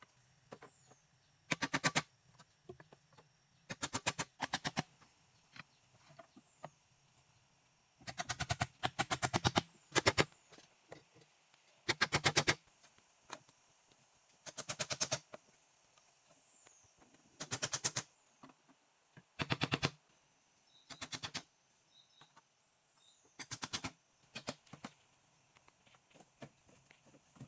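Short bursts of very rapid knocking or clicking, each about half a second long and coming every second or two, with faint high chirps between them.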